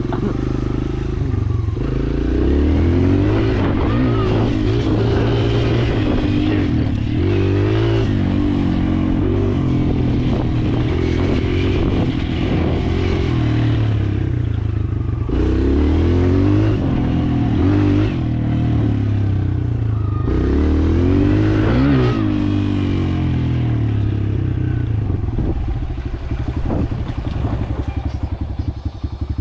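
Kawasaki KLX140L dirt bike's small single-cylinder four-stroke engine running under a rider, revs rising and falling again and again through throttle and gear changes, easing off to lower revs near the end.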